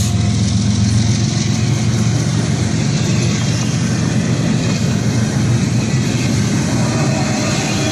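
Norfolk Southern freight train passing close by: diesel locomotive engines and rolling rail cars making a loud, steady low rumble with a wash of wheel and rail noise.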